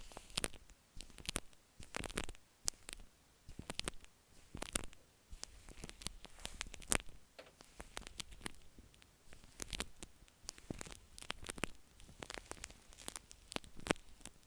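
Shaving cream foam rubbed and patted directly on an earphone microphone, heard as irregular squishy crackles and pats, some louder than others.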